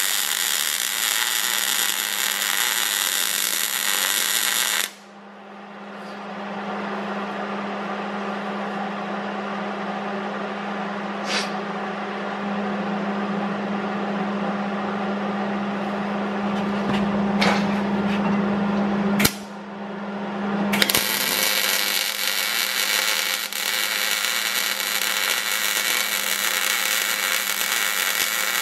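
Power tool working on steel, a loud, harsh grinding noise. About five seconds in it cuts abruptly to a quieter steady hum with a few sharp clicks. The grinding noise returns just after twenty seconds.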